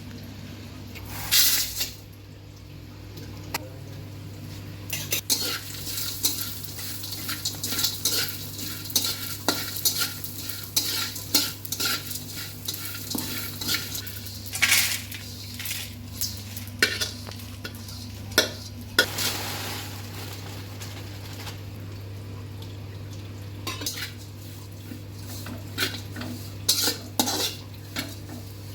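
Spatula scraping and clinking against a pan as whole spices are stirred while dry-roasting, in irregular strokes with a pause before a few more strokes near the end. A steady low hum runs underneath.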